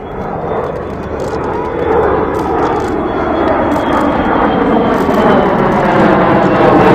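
Airplane engine noise from a low pass overhead, growing steadily louder, with a faint high whine slowly falling in pitch.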